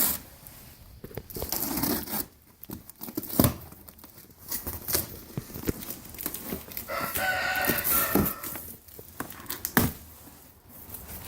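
Cardboard box of a bench grinder being opened by hand: packing tape and cardboard tearing, with packaging rustling and knocking in an irregular run of rips and clicks.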